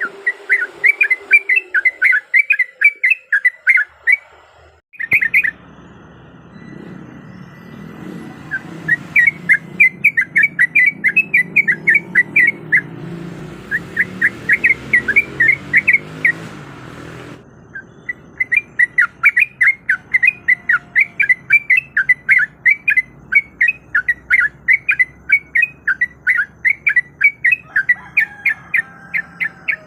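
Yellow-vented bulbul (trucuk) singing a fast, rolling run of loud chattering notes, several a second. The song comes in long runs that break off twice, about four seconds in and again past the middle, with a low rumble beneath the middle run.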